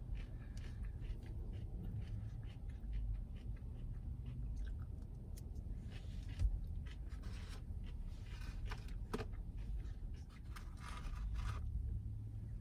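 Chewing and crunching on crispy fried chicken tenders, a run of small crisp mouth clicks and crackles over a steady low rumble.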